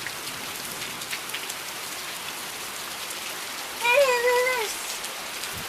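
Steady rain falling and pattering on surfaces. About four seconds in, one short high-pitched call is held briefly, then drops in pitch.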